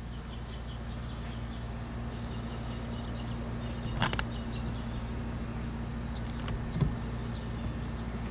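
Small birds calling over a steady low hum: rows of short high chirps, then several short falling whistles in the second half, with a couple of brief clicks.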